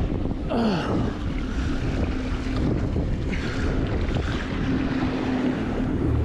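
Wind buffeting the microphone on a moving boat, over a steady engine hum and waves against the hull. There is a short falling whine about half a second in.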